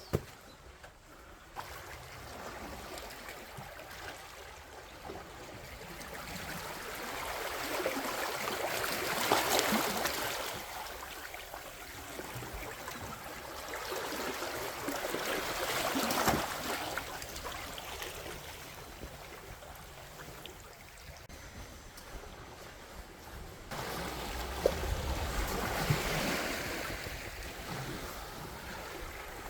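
Sea waves washing onto a sandy beach, swelling and breaking three times.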